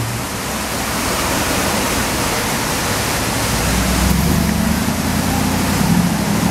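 Mercedes-Benz G-Class engine pulling away. Its low engine note comes up louder and rises a little from about halfway in, over a steady rushing background noise.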